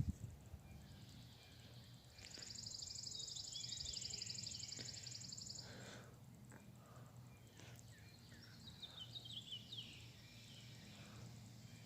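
An insect's high, rapidly pulsing buzz for about three and a half seconds, then scattered short bird chirps, over a faint steady low hum.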